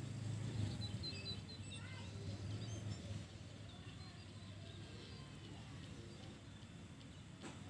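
Faint outdoor ambience: a few short, high bird chirps in the first few seconds over a low rumble that drops away about three seconds in.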